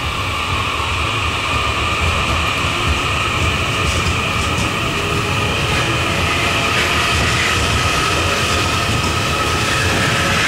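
JR East E001 series 'TRAIN SUITE Shiki-shima' train pulling away past the platform: a steady rumble of wheels and running gear with a few high, steady tones above it, growing slightly louder as it gathers speed.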